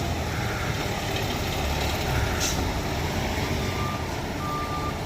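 Peterbilt 520 McNeilus ZR garbage truck running, with a short hiss of air about two and a half seconds in. Its reversing alarm starts beeping about once a second near the end.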